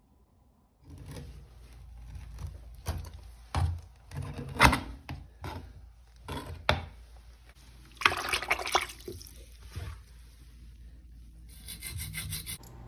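Irregular scraping and rubbing with scattered sharp knocks and clatters, and a longer scrape about eight seconds in.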